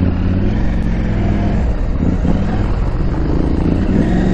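KTM 890 Adventure R's parallel-twin engine running under way, its pitch dipping about two seconds in and rising near the end as the throttle changes.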